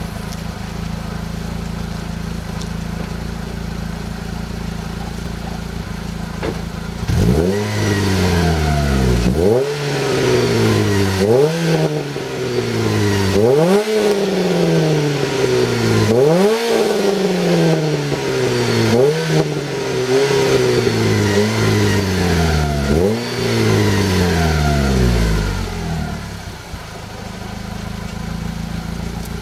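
Renault Clio III RS's 2.0-litre four-cylinder engine, breathing through a Ktec Racing cat-back exhaust with a sport catalytic converter, idles steadily, then is blipped repeatedly from about a quarter of the way in. Each rev climbs sharply and falls back, several times in a row, before it settles back to idle near the end.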